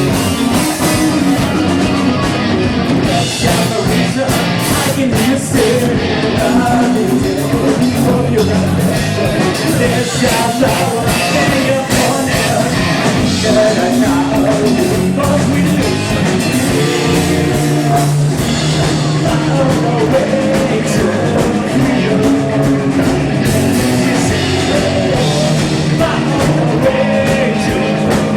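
Live rock band playing, with electric guitars, drum kit and singing, recorded loud and dense.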